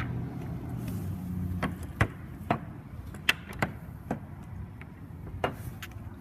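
Rear roll-up door of a box truck being lifted: a steady low hum that stops about a second and a half in, then a string of sharp metallic clanks and knocks.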